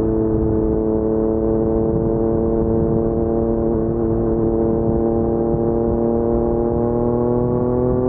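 Yamaha MT-09's three-cylinder crossplane engine through an Akrapovic carbon full-system exhaust, running at low, steady revs while riding slowly. Its pitch holds, then begins to rise gently near the end as the throttle opens.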